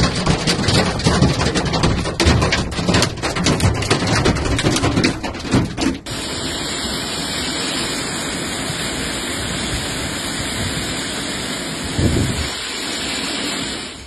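Hailstones pelting hard surfaces in a dense, irregular clatter of impacts. About six seconds in, it cuts to the steady hiss of the downpour.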